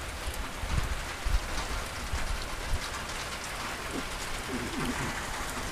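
Heavy rain falling and pattering on surfaces, a steady hiss with scattered sharp drop ticks.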